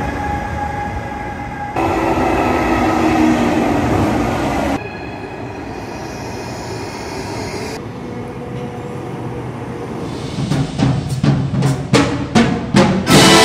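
High-speed trains running through station platforms, a steady rushing rumble that jumps abruptly between clips several times. About ten seconds in, a marching band takes over with loud, sharp drum beats and brass.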